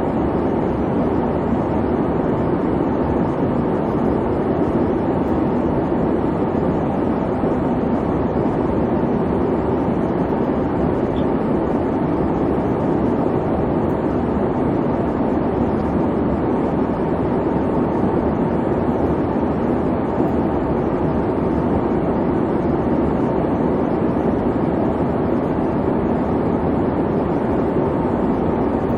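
Steady rumbling hiss of an airliner cabin in flight: engine and airflow noise heard from inside the cabin, unchanging throughout.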